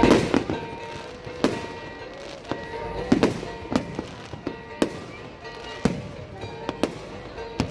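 Fireworks going off in an irregular series of sharp bangs and crackles, the loudest at the start and about three seconds in, with music playing underneath.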